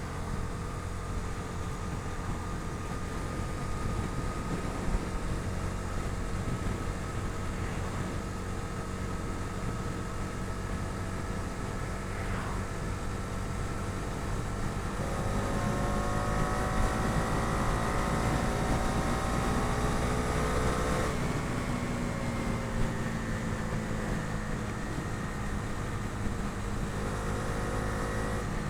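Bajaj Dominar 250's single-cylinder engine running on the road over a low wind rumble. About halfway through the revs climb steadily under acceleration, then fall sharply at a gear change, and they build again near the end.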